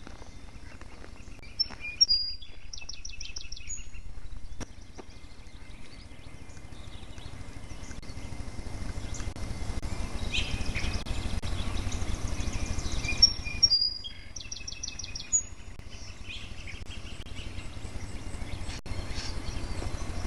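A songbird singing the same short phrase twice, about eleven seconds apart: a few high chirps followed by a fast trill. Fainter bird calls come in between, over a steady low rumble.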